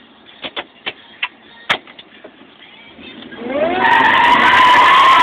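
A few sharp clicks, then about three and a half seconds in the 2001 Ford F-150 Lightning's supercharged 5.4-litre V8 comes up on the throttle and the tires break loose in a burnout, rising into a loud, steady tire squeal.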